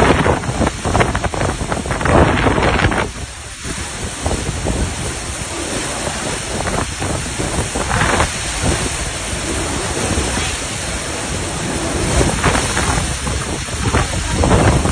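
Hurricane wind and heavy rain, gusting in surges and buffeting the microphone, with a brief lull about three seconds in.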